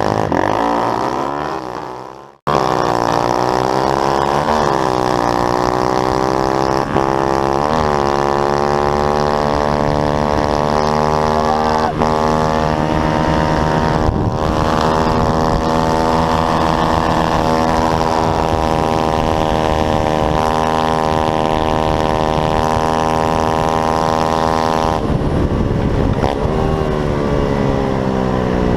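Pit bike engine running steadily under throttle, with a few quick rises and falls in pitch as it is revved. The sound fades away at the start and then cuts back in suddenly at full level.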